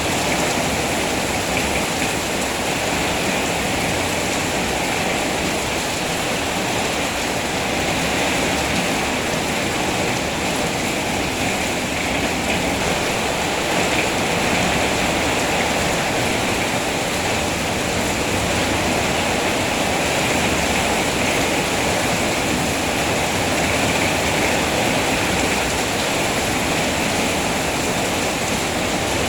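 Steady rain falling, a dense, even rushing hiss that never lets up.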